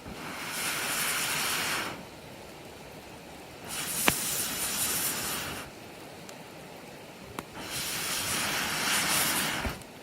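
Campfire crackling with a few sharp pops, broken three times by a rushing hiss about two seconds long.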